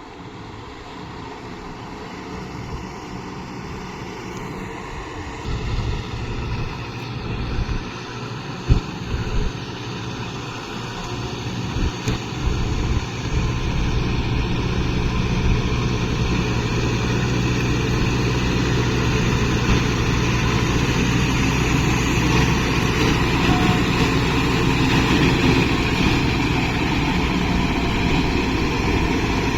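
Kubota MU5502 tractor's diesel engine running steadily, growing louder over the first half and then holding, with a few short knocks early on in the first half.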